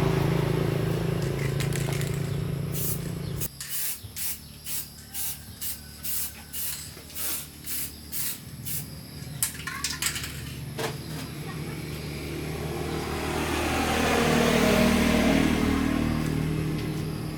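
A steady mechanical hum with hiss, then a run of short spray hisses about two a second, then a longer spray hiss that swells and fades over a low hum.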